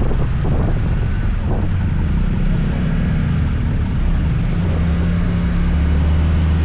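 Scooter engine running while riding, a steady low drone that settles onto a steadier, stronger hum about four and a half seconds in.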